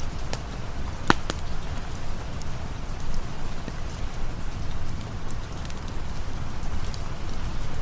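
Rain and campfire ambience: a steady rush of rain over a low rumble, with scattered sharp crackles, the loudest about a second in.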